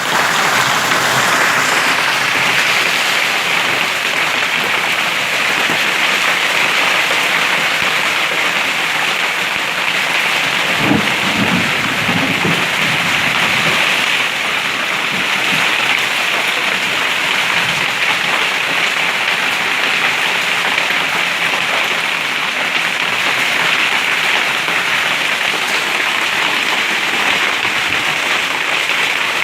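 Hailstorm: hail and heavy rain pelting down in a dense, steady hiss, with a brief low rumble about eleven seconds in.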